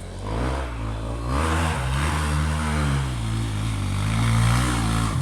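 Enduro dirt bike engine revving hard under load, its pitch climbing and dipping several times, with a rush of noise over it. It cuts off suddenly at the end.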